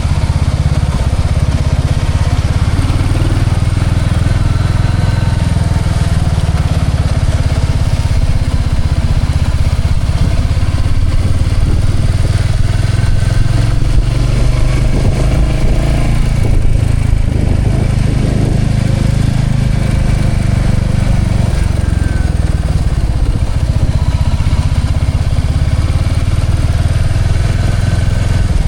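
Motorcycle running steadily while being ridden, a loud even rumble with no clear changes in speed.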